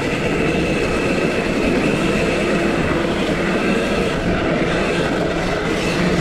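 KTM SX-E 5 electric mini motocross bike riding on a dirt track: a steady electric-motor whine over a dense low rumble.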